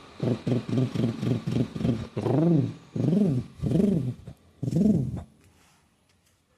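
Pigeon cooing, a low guttural coo: a quick run of short coos, then four longer coos that rise and fall in pitch, stopping about five seconds in.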